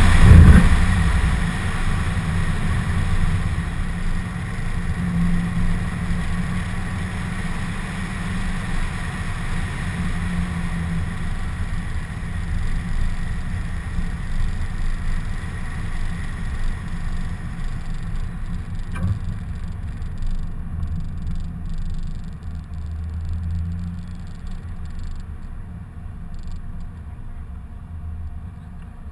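2015 Corvette Z06's supercharged 6.2-litre V8, loud for a moment at the start, then settling to a low, steady rumble that slowly fades.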